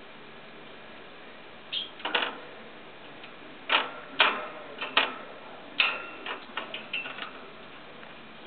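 Barn owl eating: a dozen or so short, sharp clicks and snaps at an irregular pace, some in quick clusters, from its beak working on the food.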